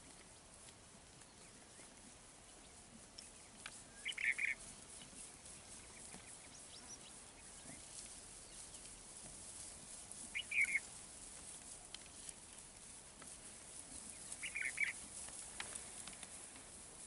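A bird calling three times, several seconds apart, each call a short cluster of a few quick notes, over a faint background.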